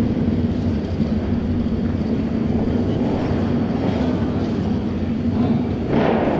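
Auto race motorcycles running on the oval track, a steady engine note with swells as the bikes pass about four and six seconds in.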